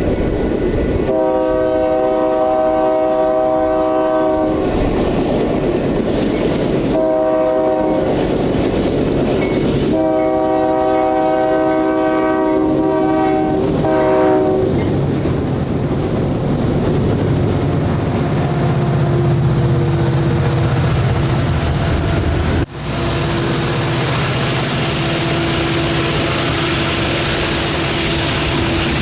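Diesel locomotive horn sounding three blasts: long, short, long. Then the locomotive runs on with a steady low engine rumble and a thin high whine.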